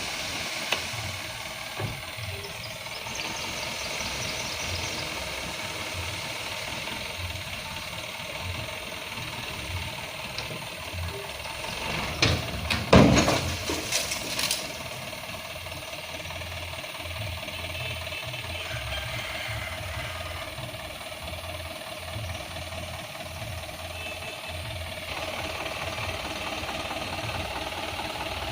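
Isuzu Elf dump truck's diesel engine running steadily, with a short burst of loud knocks and clatter about halfway through.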